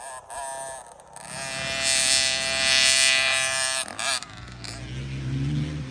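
Motocross dirt bike engines on a track. A bike holds high revs for a couple of seconds from about a second in, the loudest sound here. Near the end a lower engine note comes in and rises a little.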